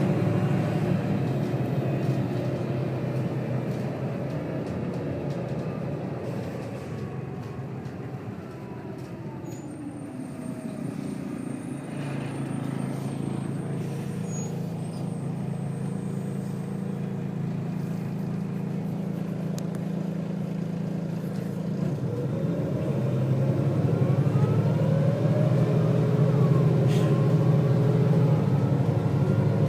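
Volvo B6BLE bus engine and ZF automatic gearbox, heard from inside the bus. The engine eases off and quietens as the bus slows. A little past two-thirds of the way through, a ZF kick-down drops a gear and the engine revs up louder under hard acceleration.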